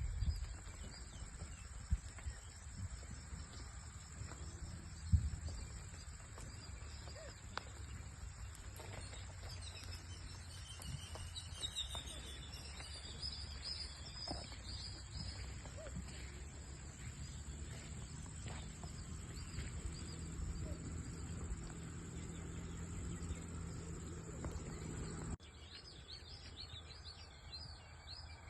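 Rural outdoor ambience with birds chirping now and then, mostly around the middle and again near the end, over a steady low rumble and a thin, steady high-pitched tone. The sound drops suddenly in level near the end.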